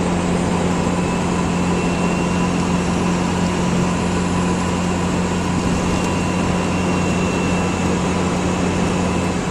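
Hotshot truck cruising at steady highway speed: an even engine drone with a constant low hum under steady road and tyre noise.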